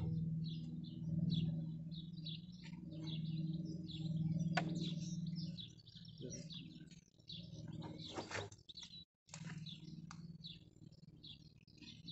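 Small birds chirping over and over in short high calls, over a steady low hum. A couple of brief scratchy noises stand out, about a third of the way in and again about two thirds in.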